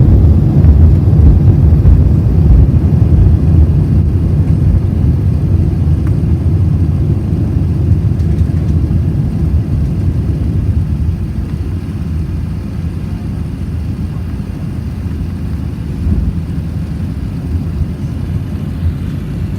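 Deep jet-engine rumble of an airliner, loudest at first and slowly fading away.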